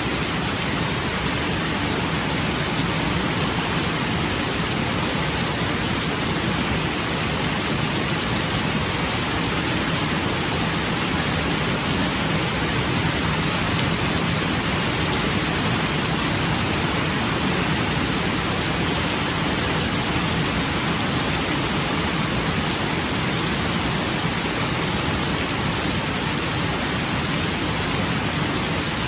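Steady rain falling, an even wash of drops that holds at one level throughout.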